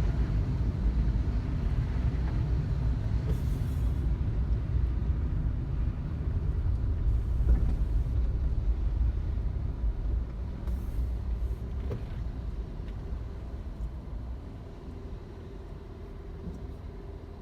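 Low, steady rumble of a car driving: road and engine noise, easing off over the last few seconds as a faint steady hum comes in.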